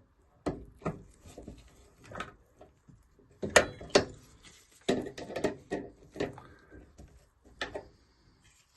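Irregular knocks, clicks and scraping of hard parts being handled and worked with tools on a gas boiler, with the loudest strikes about halfway through.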